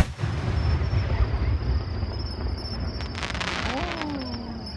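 A firework shell bursts with a single loud boom, followed by a rolling echo for about two seconds, then a crackling burst about three seconds in. Crickets chirp steadily underneath.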